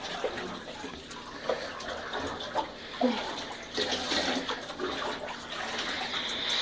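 Water running and splashing in a bathtub as a dog is bathed, with scattered small splashes; the water gets louder about four seconds in.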